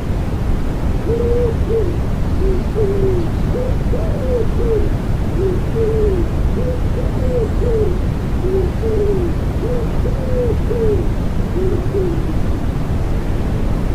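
Common wood pigeon cooing in repeated phrases of soft, low coos, over a steady rushing noise bed of white noise and rain.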